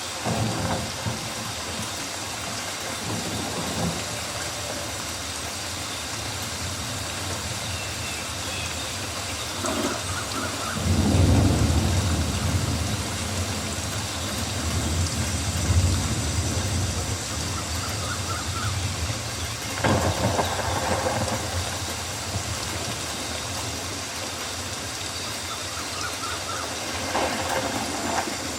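Rainforest ambience of steady rain falling on foliage, with a low rumble swelling about eleven seconds in and lasting several seconds.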